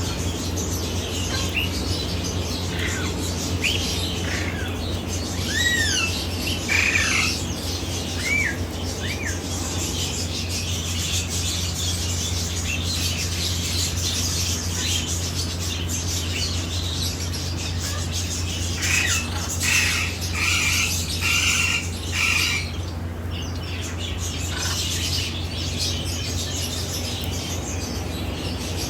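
African grey parrot calling: a string of short rising-and-falling whistles in the first ten seconds, then a run of harsher squawks about twenty seconds in, over a steady low hum.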